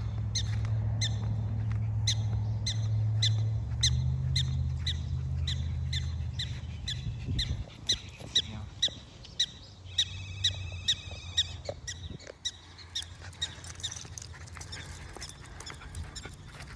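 Black-tailed prairie dogs giving their alarm barks: a long run of short, sharp chirping calls, about two or three a second. A low rumble runs under the first half and cuts off about seven seconds in.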